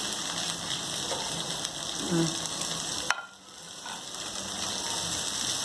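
Chopped vegetables (onion, garlic, carrot and cabbage) sizzling in hot oil in a frying pan. A sharp click comes about three seconds in; the sizzle then drops away abruptly and builds back over the next second.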